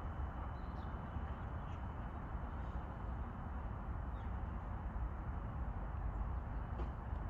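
Outdoor park ambience: a steady low rumble and hiss, with a few faint, short bird chirps now and then.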